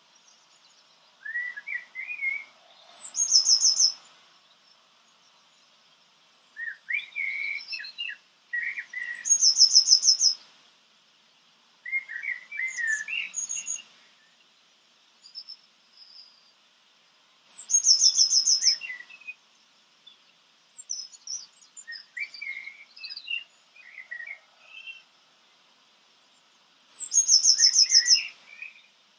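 A songbird singing short, varied phrases with pauses between them. Four of the phrases end in a rapid high trill.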